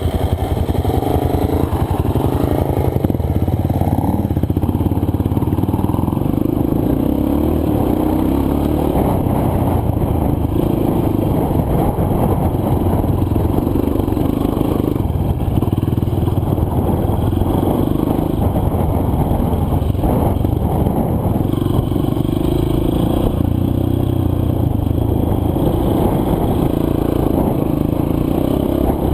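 Single-cylinder dirt bike engine running on a trail ride, its revs rising and falling continuously as the rider works the throttle, with some clatter from the bike over rough ground.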